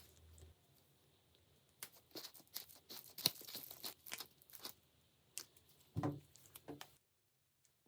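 Irregular workshop handling noises: a run of clicks, taps and short scrapes, loudest about three seconds in and again near six, then cutting off abruptly.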